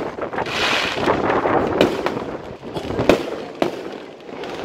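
Aerial fireworks bursting: several sharp bangs of shells exploding over a continuous noisy background.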